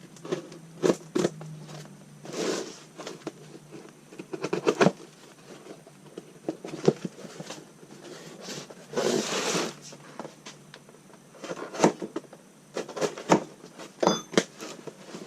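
A shipping package being opened by hand: scattered taps, clicks and rustles of the packaging, with a longer tearing noise about nine seconds in.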